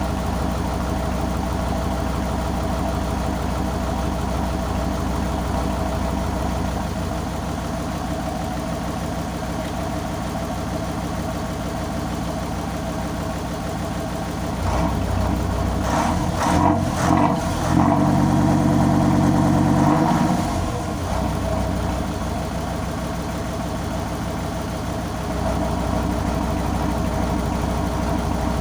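Tugboat engine running steadily, revving up for several seconds around the middle and then easing back while the tug moves fishing boats into place.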